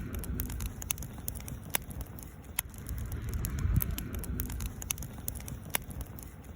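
Wood campfire burning: scattered sharp crackles and pops from the burning wood over a low rumble that swells and fades.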